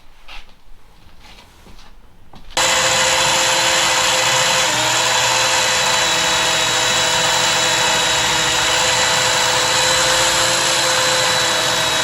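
A steady, loud electric motor-driven machine, such as a power tool or a vacuum, switches on suddenly a couple of seconds in and runs at constant speed, with a brief dip in pitch a couple of seconds after it starts. A few faint knocks come before it.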